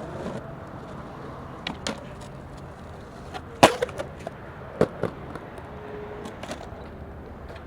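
Skateboard rolling, with about five sharp clacks of the board, the loudest a little over three and a half seconds in.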